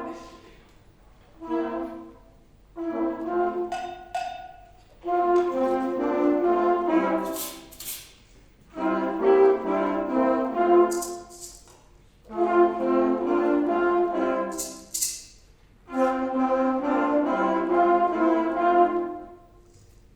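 Youth fanfare band of brass and saxophones playing chords in short phrases separated by brief pauses, with three short high hissing noises among the phrases.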